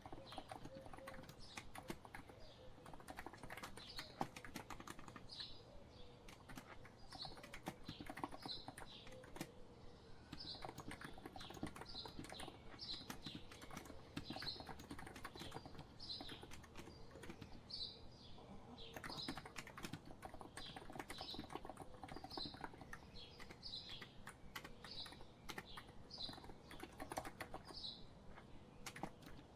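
Continuous typing on a COX Empress electro-capacitive keyboard, a dense run of soft key clicks. A bird chirps over it, a short call repeated about once a second, from about four seconds in until near the end.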